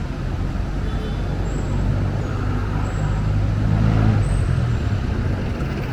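Road traffic: a large vehicle's engine passes and grows loudest about four seconds in, over a steady low rumble.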